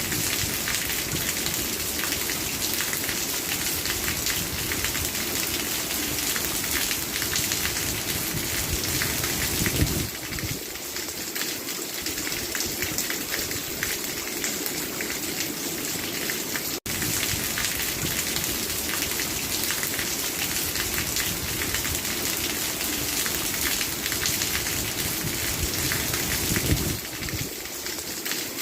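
Steady rain falling, a dense patter of drops hitting a surface. The sound breaks off for an instant about seventeen seconds in.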